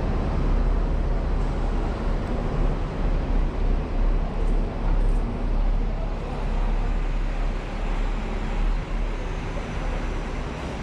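Steady low engine rumble under a dense wash of noise, with no clear separate events.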